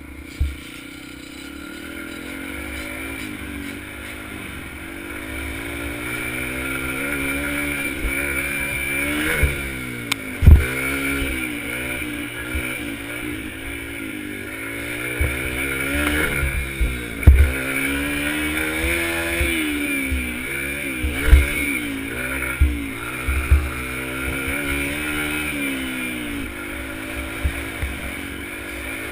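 Dirt bike engine riding hard, its pitch rising and dropping over and over as it revs and the rider backs off. Several sharp, loud, low thumps are heard along the way.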